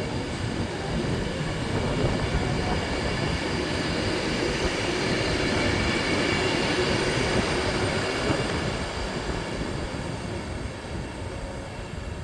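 Electric train moving through the station, with the running rumble of wheels on rail and a faint high whine. It builds through the middle and eases off near the end.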